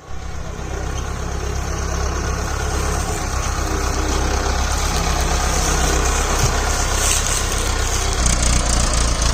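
Swaraj 744 FE tractor's diesel engine running steadily, a continuous low throb.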